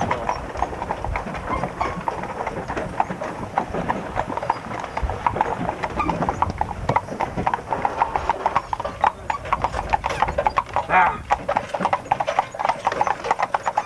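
Horse hooves clip-clopping in a steady run of quick, sharp clops, with a short pitched call about eleven seconds in.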